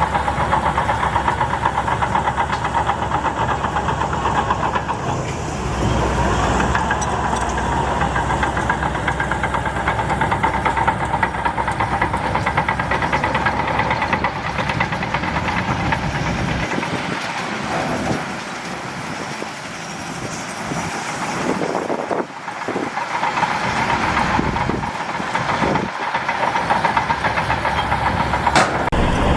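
Shantui DH17C2 bulldozer's diesel engine running hard while pushing earth, easing off to a quieter stretch about two-thirds through before picking up again.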